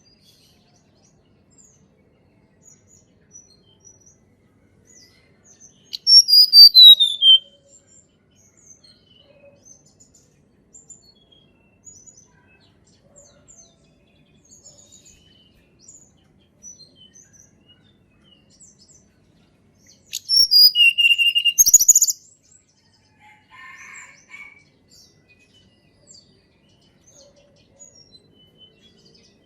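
Tledekan gunung songbird singing: a loud high phrase that slides down in pitch about six seconds in, and another loud phrase ending in a held whistle about twenty seconds in, with faint high chirps scattered in between.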